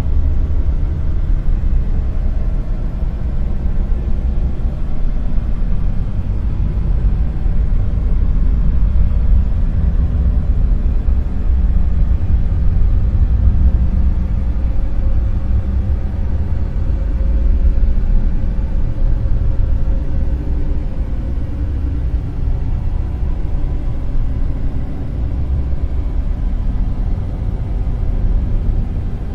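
Dark noise: a steady, deep noise with most of its weight in the lowest bass and little treble, its level wavering slowly. Faint steady tones sit in the middle pitches.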